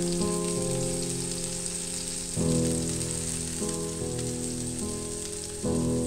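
Halved tomatoes sizzling in a little hot oil in a non-stick frying pan, a steady frying hiss. Background music of held chords that change every second or two plays over it, with louder chord changes about two and a half seconds in and near the end.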